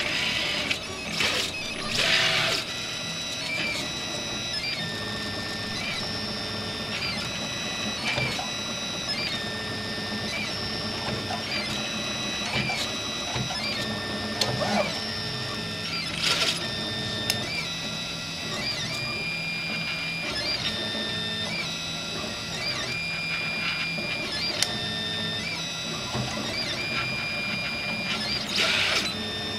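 RepRap 3D printer's stepper motors whining in steady tones that jump in pitch every second or so as the axes change speed and direction, with a couple of brief louder rushing bursts, about 16 s in and near the end.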